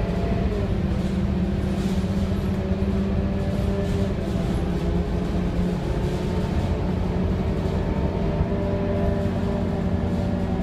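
Scania K230UB city bus running, its Scania DC9 9.3-litre diesel engine and ZF automatic gearbox making a steady drone with several whining tones, which drop a little in pitch about half a second in and then hold steady.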